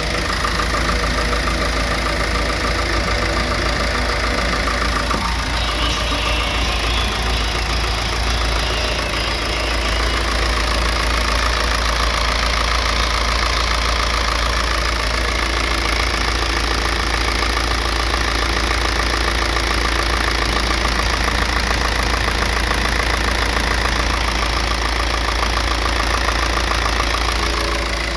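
The 4.78 L four-cylinder turbo-diesel of a 2001 W4500 truck running steadily at idle, getting a little louder from about ten seconds in.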